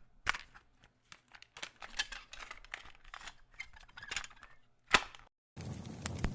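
Plastic clicks and clacks of a cassette tape and player being handled, with a louder click about five seconds in. Steady tape hiss starts near the end as playback begins.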